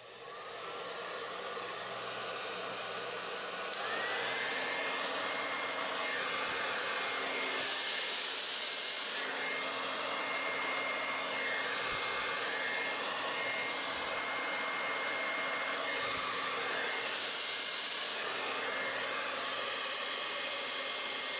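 Handheld blow dryer switched on and running steadily with a hissing rush of air and a thin whine. About four seconds in it steps up to a higher setting, louder and with a higher-pitched whine.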